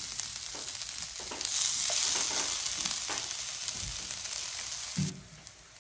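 Vegan bacon strips sizzling in an electric skillet, with scattered light taps. The sizzle grows louder about a second and a half in and stops abruptly about five seconds in.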